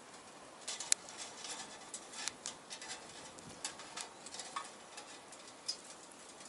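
Small wood fire crackling in a stainless-steel box stove: irregular sharp pops and snaps over a faint hiss, the loudest about a second in.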